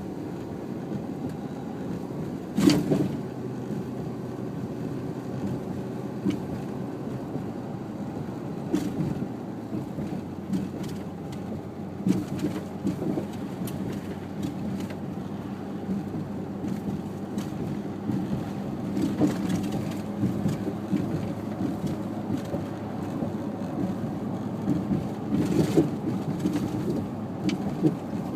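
Vehicle driving: a steady low rumble of road and engine noise, with a few sharp knocks or bumps, the loudest about three seconds in.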